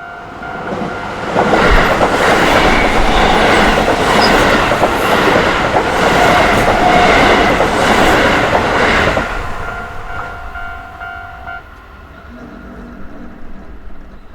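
A Keio Takao Line electric train passes over a level crossing, its wheels clattering over the rails for about eight seconds before the noise dies away. The crossing's electronic warning bell rings throughout and stops a couple of seconds after the train has gone.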